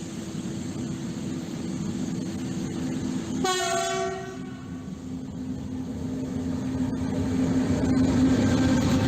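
A train's horn sounds once, a short blast about three and a half seconds in, over the steady running hum of a train at the station. The hum grows louder over the last few seconds.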